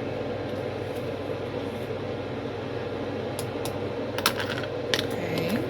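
A steady mechanical hum, with a few light clicks in the second half.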